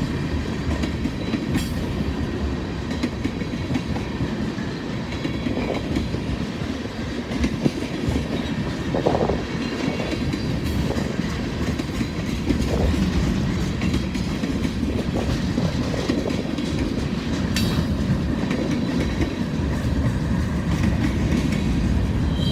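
Freight train cars rolling steadily past at trackside. The wheels clack over the rail joints beneath a continuous low rumble.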